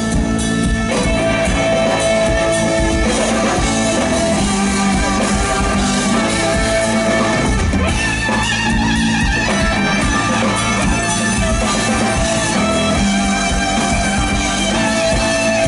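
Live rock band playing an instrumental passage with guitar and drums, no vocals.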